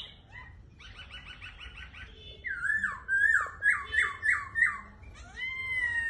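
Black-throated laughingthrush singing: a quick run of repeated chattering notes, then a string of loud downslurred whistles about three a second, ending in a long rising-then-falling whistle.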